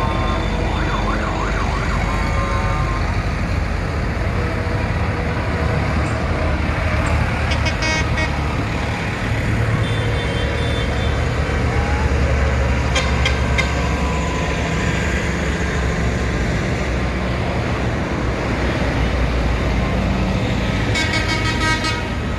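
Tractor engines running steadily as a procession of tractors passes, with a few short horn toots over the rumble.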